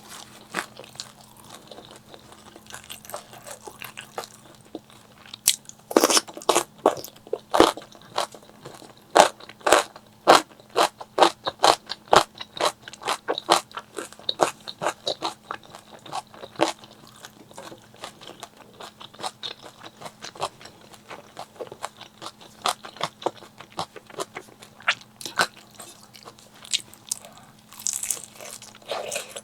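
Close-miked eating: crisp crunching bites and chewing of crunchy food, a rapid run of sharp crunches through the middle that thins out toward the end.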